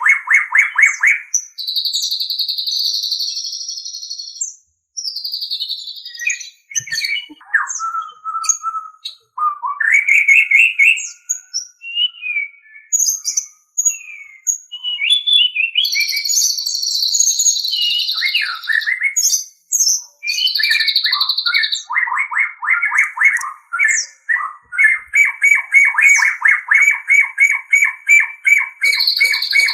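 White-rumped shama (murai batu) singing a varied, continuous song. Whistled notes and pitch glides alternate with harsh buzzy phrases, and from about two-thirds of the way in the bird delivers a fast string of repeated notes.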